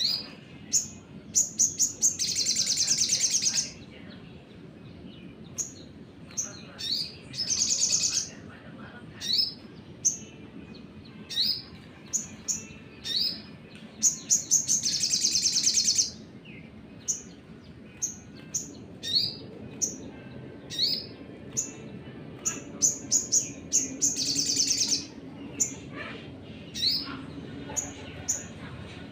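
Sunbird song: sharp, high chirps that rise quickly in pitch, repeated many times, broken by four fast trills of one to two seconds each. This is the long 'nembak' trilling that keepers play to set other birds singing.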